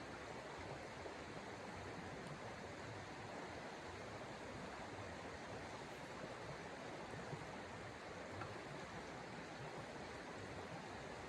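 Steady rushing noise of snowstorm wind, even throughout with no distinct events.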